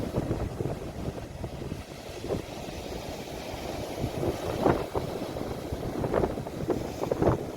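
Sea waves washing ashore, a steady low rush of surf with several short splashes of water in the second half.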